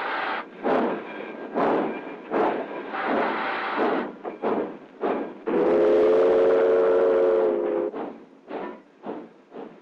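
Steam locomotive pulling out, its exhaust chuffing in even puffs that come faster near the end. About halfway through, its whistle blows a steady chord for about two seconds.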